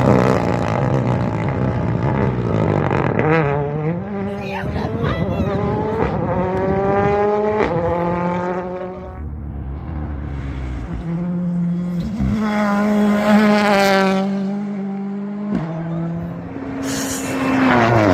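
Rally car engines at full throttle, revving up through the gears: the pitch climbs, drops sharply at each upshift and climbs again, with brief lifts off the throttle.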